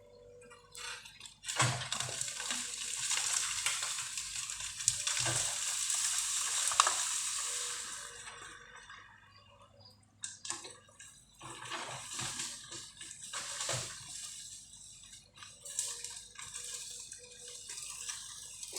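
Bamboo rustling and cracking as a heavy machine clears it: a loud rush of leaves and stems for several seconds, then scattered sharp snaps.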